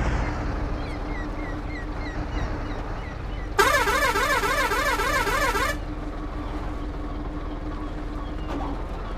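Truck running with a steady engine drone and hum, and about three and a half seconds in a warbling truck horn sounds for about two seconds, its pitch swinging rapidly up and down.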